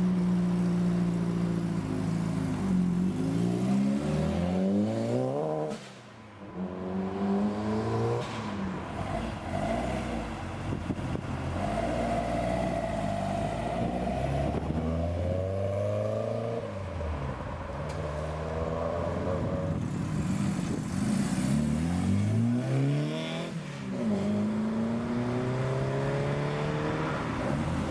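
Classic Ford cars' engines revving and accelerating away one after another. Their pitch climbs and drops back repeatedly as each car pulls off.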